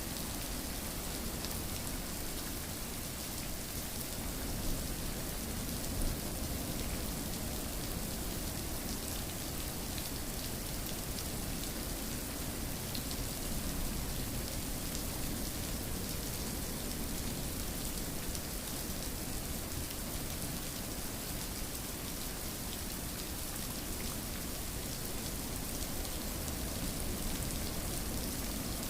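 Steady rain falling, an even hiss with many fine drop ticks and a couple of slightly louder drops about five and six seconds in.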